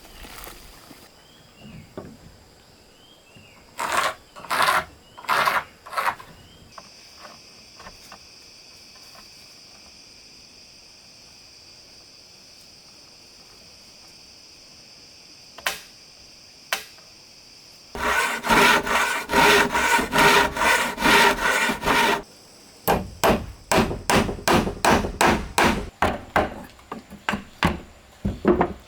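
Wood being worked by hand with a tool: a few scraping strokes, then a long run of quick rhythmic strokes, about two or three a second, in the second half. A steady high-pitched hum fills the middle stretch.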